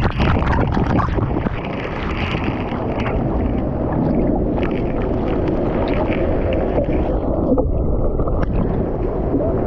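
Waterfall pouring: a steady, loud rush of falling water with no let-up.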